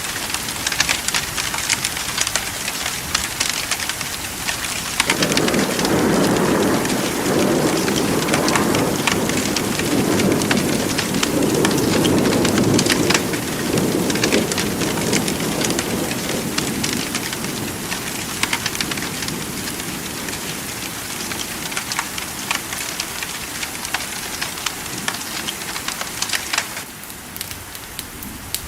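Steady rain, a dense hiss dotted with fine crackling drop taps. A long low rumble of thunder rolls in about five seconds in and dies away after about ten seconds.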